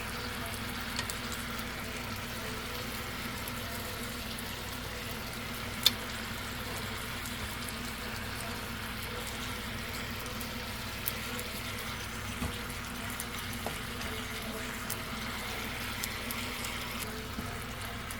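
Chicken sizzling steadily as it cooks, with a sharp click about six seconds in and a few faint ticks later.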